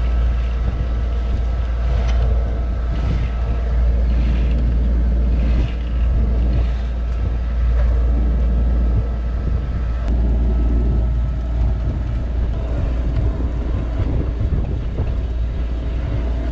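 Sailboat's engine running steadily under way, a constant low drone, with wind buffeting the microphone.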